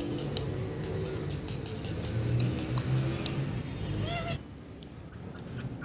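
Ringneck parrot giving one short, wavering call about four seconds in, over a steady low background rumble and scattered small clicks.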